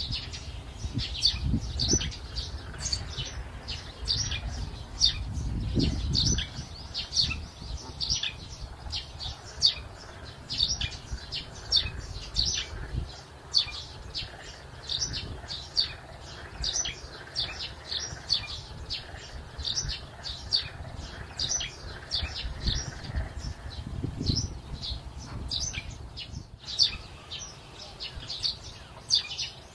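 Small birds chirping continuously, several short high calls a second, with a few low rumbles on the microphone.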